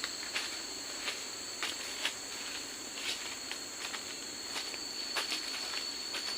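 Forest insects droning steadily on two high tones, with irregular light clicks and crunches from handling or stepping on forest debris scattered throughout.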